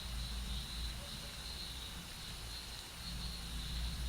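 Steady rain ambience: an even hiss with a continuous high, wavering trill and a low rumble underneath.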